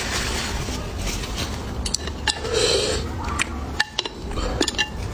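Eating at the table: utensils clicking and clinking against dishes several times, with a short burst of mouth noise about two and a half seconds in, over a steady low hum.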